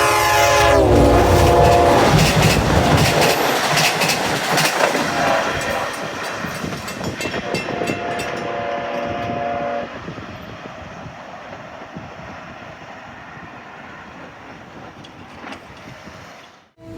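Long Island Rail Road train passing with its horn sounding, the horn's pitch dropping as it goes by, and wheels clicking over the rail joints. A second long horn blast comes about eight seconds in as the train draws away and its noise fades.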